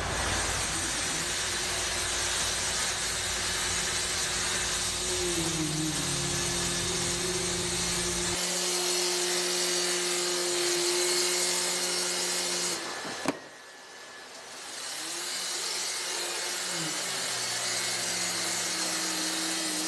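Machinery whirring over a steady hiss, with motor tones that slide up and down in pitch now and then. There is a click and a brief drop in the sound about 13 seconds in.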